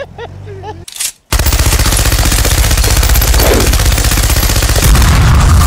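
Heavy machine gun firing one long, unbroken burst of rapid shots. It starts abruptly about a second in and grows heavier near the end.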